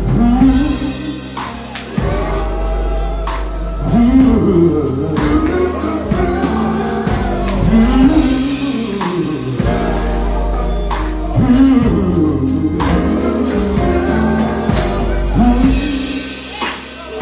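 Gospel music: a band plays with wordless singing over steady low bass notes and drum hits about once a second.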